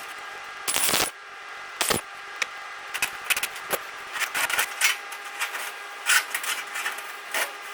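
Metalworking on steel: a steady machine hum with irregular rasping, crackling noises over it, the loudest about a second in.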